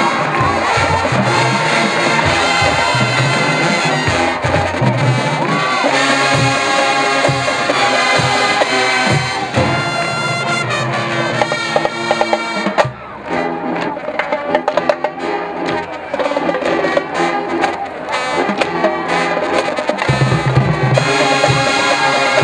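College marching band playing, with brass (trumpets and trombones) over drums. About thirteen seconds in the sound thins and the high brass drops out, and the full band comes back in near the end.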